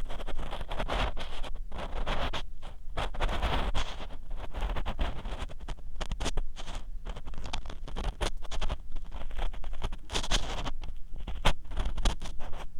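Ear pick scraping and rubbing inside the silicone ear of a 3Dio binaural microphone: a dense, continuous run of close, rough scratching strokes over a low rumble.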